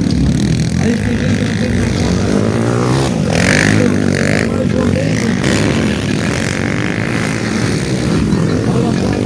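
Motocross bikes' engines running hard on the track, their pitch rising and falling as the riders open and close the throttle.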